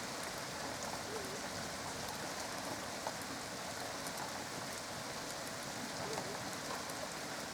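Steady rain falling during a thunderstorm, an even hiss of rain with many small drop ticks.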